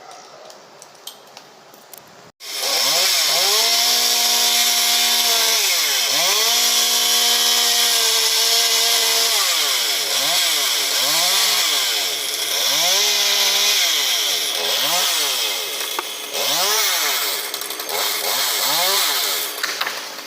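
Two-stroke chainsaw cutting wood. It starts about two seconds in and revs up to full throttle, holding there for a few seconds at a time, twice. Then comes a series of shorter, quicker revs with the throttle let off between them.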